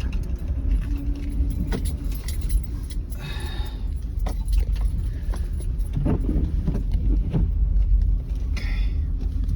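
Car driving slowly on a snowy road, heard from inside the cabin: a steady low engine and road rumble with many scattered light clicks and rattles, and two brief hissing swishes, one about a third of the way in and one near the end.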